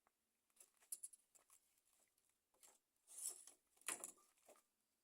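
Faint rustling and scraping of wooden sticks being woven into a stick fence, with a few sharper crackles about a second in and again around three to four seconds in.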